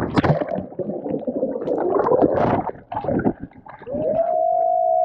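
Water splashing and gurgling right against an action camera's microphone as it is handled in a lake, then, from about four seconds in, a steady hum-like tone as water sits over the mic.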